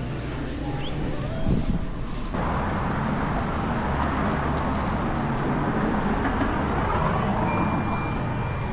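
Steady road and traffic noise, a low hum that turns suddenly into a loud, even rush of noise about two seconds in.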